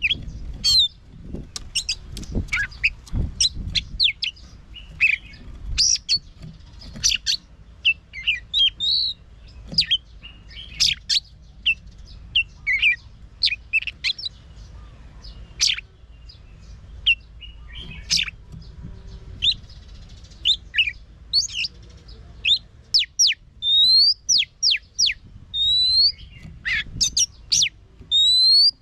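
Oriental magpie-robin singing: a rapid, varied run of sharp whistles, chirps and quick slurred notes, with rising whistles repeated near the end.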